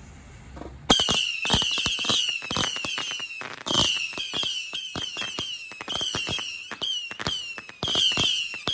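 Multi-shot consumer firework cake going off about a second in, firing rapid sharp bangs in volleys that start roughly every two seconds, each volley with a high hissing crackle.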